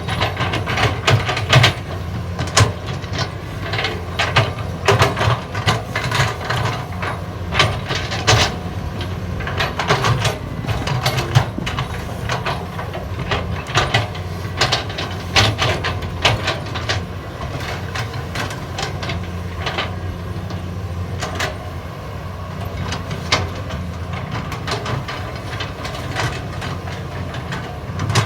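Caterpillar 320D hydraulic excavator's diesel engine running steadily under digging load, with frequent knocks and clatter throughout, denser in the first half.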